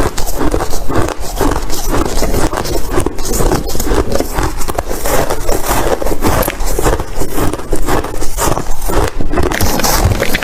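Ice being crunched close to the microphone: a dense, irregular run of loud cracking and crunching strokes.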